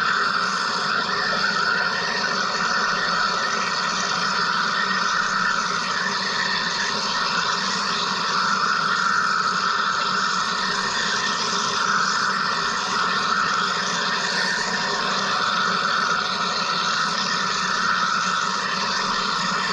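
Wire EDM machine running: a steady, unchanging hiss and buzz of the cutting process, with no breaks or changes.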